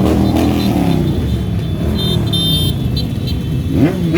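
Motorcycle engines running as bikes ride past in a slow procession, their pitch wavering, with one engine revving up sharply near the end.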